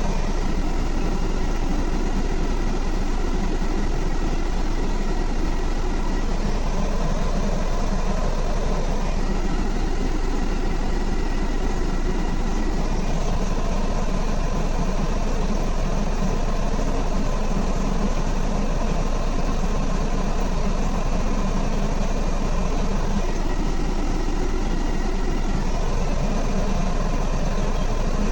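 Renault Trucks D Wide engine idling steadily, with an even, unchanging running sound.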